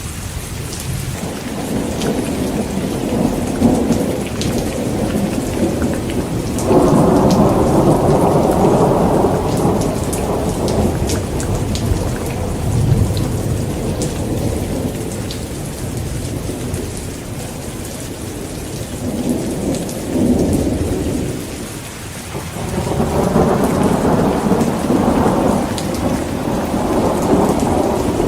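Heavy rain falling steadily with rolling thunder. A rumble of thunder breaks in abruptly about seven seconds in and fades after a few seconds, and another builds a few seconds before the end.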